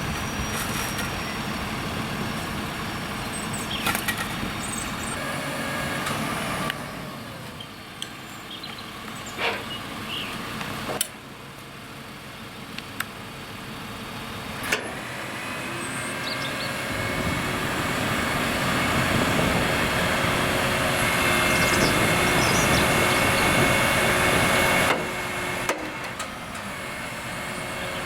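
Delivery truck's engine running to drive its HIAB loader crane's hydraulics, with a whine that grows louder in the second half. A few sharp knocks come through as the load is handled.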